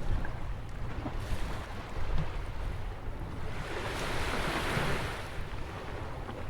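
Atlantic surf breaking and washing in by a rock jetty, with one wave swelling into a broad hiss about four seconds in. Wind rumbles low on the microphone throughout.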